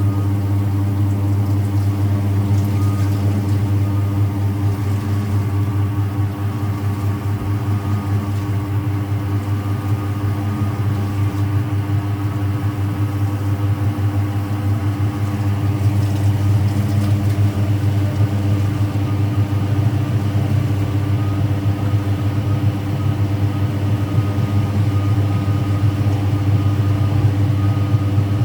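Speed Queen top-loading washing machine running with a steady, loud motor hum.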